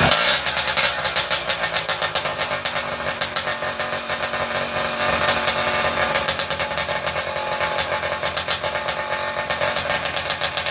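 Skyhawk two-stroke motorized-bicycle engine with a dirt bike muffler, running steadily with the choke on, just after firing up.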